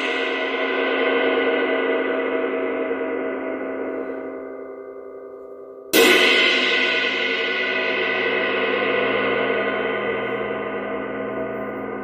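Omete Knight Series 22-inch ride cymbal left ringing, its wash slowly dying away, then struck hard again about halfway through and left to ring out.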